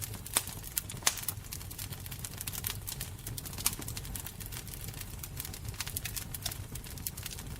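Wood fire burning with a steady low rumble and irregular crackles and pops, a few sharper snaps standing out.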